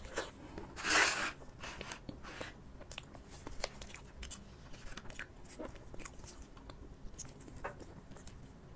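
Close-miked eating: bites and wet chewing of a soft mango pancake (thin crepe wrapped around cream and mango), with many small mouth clicks and smacks and one louder burst about a second in.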